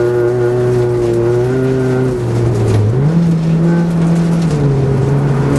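Rally car's engine heard from inside the cabin at speed: a steady engine note that sags briefly, jumps up in pitch about three seconds in, holds, then drops back shortly before the end.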